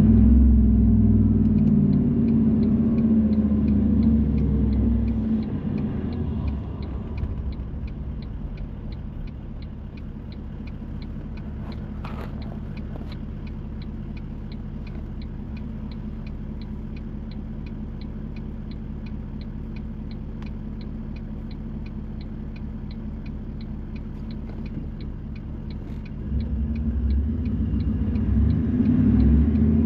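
Car interior on a rainy drive: low engine and road rumble that eases off after the first few seconds to a quiet steady idle hum, with an even ticking several times a second. Near the end the rumble builds again as the car pulls away.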